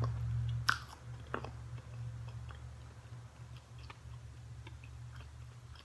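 A person chewing and eating soft food (peas and butternut squash), with wet mouth clicks and a sharper click about a second in, over a steady low hum.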